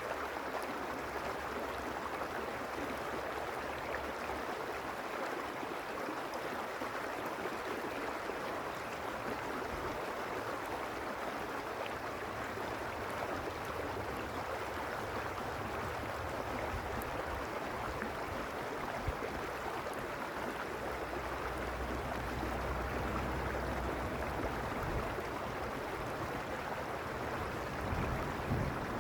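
Mountain creek flowing over stones: a steady, continuous rush of running water. A low rumble joins in underneath for the last several seconds.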